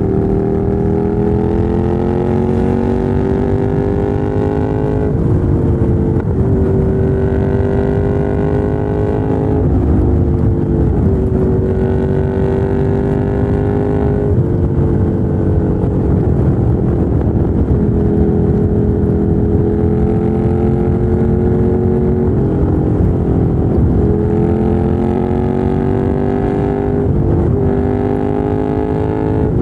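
The air-cooled L-twin of a Ducati Monster 797 running through a LeoVince LV-10 exhaust as the bike rides. The engine note climbs under power and then drops sharply at each gear change, about ten times, over steady wind and road noise.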